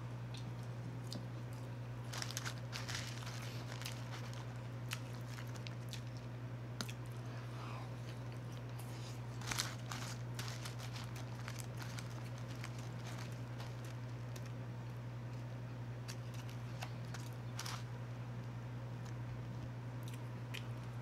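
Close-up chewing and crunching of a mouthful of cheese fries, with small wet clicks and occasional crinkles of the paper food liner as fries are picked up, over a steady low hum. The crunching is busiest about two seconds in and again near the middle.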